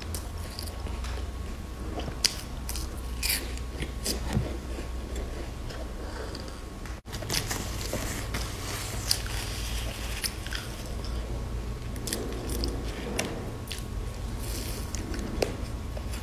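Close-up biting and crunching of crisp snack bars: a sesame-coated chocolate wafer and a nut-and-seed bar. Irregular sharp crunches and chewing sound over a low steady hum, and the sound cuts out for an instant about seven seconds in.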